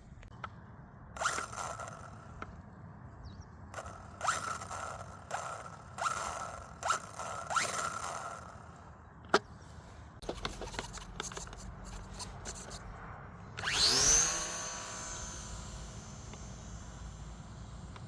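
Small electric motor of a radio-control P-51 Mustang model, blipped several times in short bursts, then run up to a loud high whine about 14 seconds in that slowly fades.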